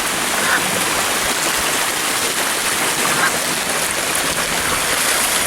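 Water rushing over a spillway: a steady, unbroken rush of noise.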